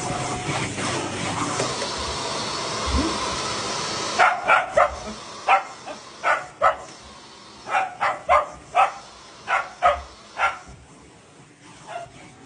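A vacuum cleaner runs with a steady noise until about four seconds in, then stops. A cockapoo then barks about a dozen times in short volleys, one or two barks a second.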